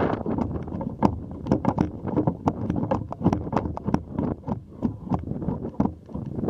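Strong wind buffeting the microphone of a camera raised on an extended pole, a heavy low rumble broken by frequent irregular sharp clicks.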